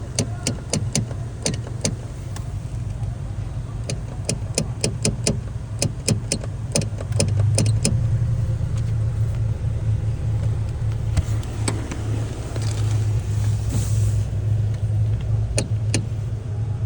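Car engine idling with a steady low hum and irregular sharp rattling clicks, thickest in the first half. About seven seconds in the running gets louder and stays that way.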